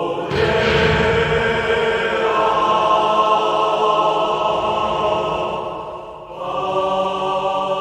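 Music: long held chanted or choral voices on several sustained notes over a low rumble, with a brief dip about six seconds in before the voices return.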